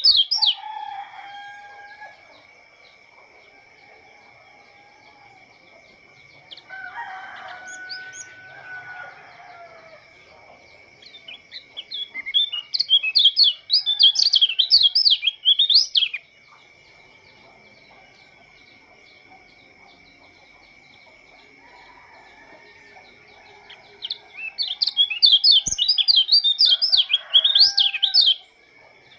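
A pleci lombok white-eye sings two long bouts of fast, high, twittering warble, each about four seconds, one about halfway in and one near the end. A rooster crows in the background a few times, and a steady thin whine runs throughout.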